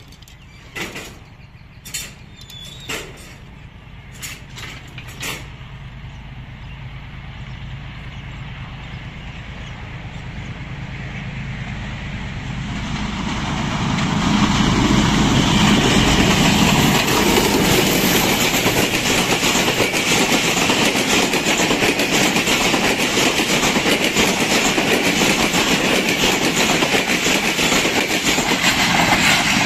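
Passenger train headed by a Pakistan Railways HBU-20 diesel locomotive approaching and passing close by. A few sharp clicks come in the first seconds, then the sound grows steadily. It peaks with a deep rumble as the locomotive goes by about halfway through, then settles into a steady rush of wheels on rails as the coaches run past.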